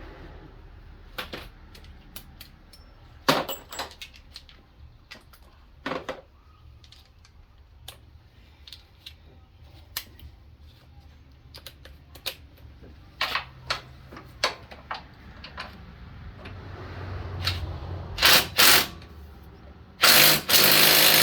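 Scattered clinks and knocks of hand tools on metal. Near the end a handheld power tool runs in two short bursts, then a longer run. The tool is struggling to loosen a fastener.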